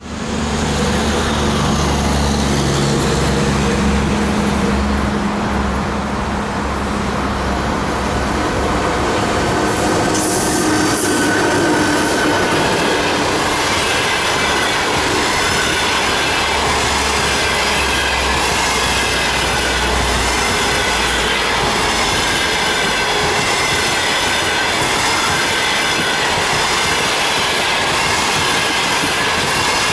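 EP1M electric locomotive and its passenger train passing at speed: a loud, steady din of wheels on rails, with a low hum in the first seconds and high squealing tones over the noise from about halfway on.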